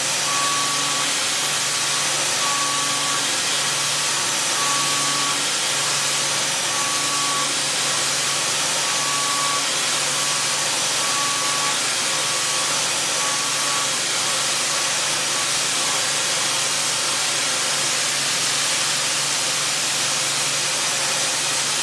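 Milling machine running with a steady hiss, and a tone that comes and goes about every second or two before stopping about sixteen seconds in.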